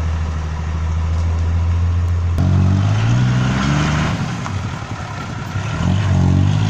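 A vehicle engine runs at a steady pitch, then revs up twice, its pitch rising about two and a half seconds in and again near the end, as the vehicle pulls away and accelerates.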